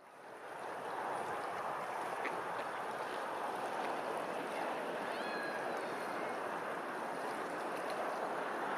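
Steady rushing noise like running water, with a brief faint chirping call about five seconds in.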